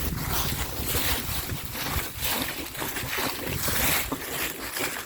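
Wind buffeting the microphone in uneven gusts over a continuous rushing noise of movement.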